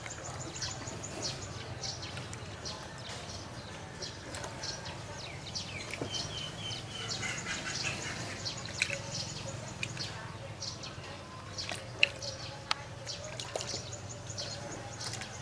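Many short, high chirps and clicks from small animals, repeated throughout over a steady low hum.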